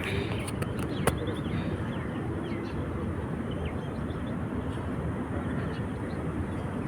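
Seaside outdoor ambience: a steady low rumble with scattered short, faint bird chirps and a single sharp click about a second in.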